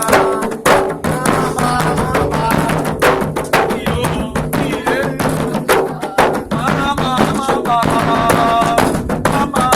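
Candomblé drumming for a toque to Xangô: a rapid, dense pattern of hand-drum strikes, with voices singing the chant over it.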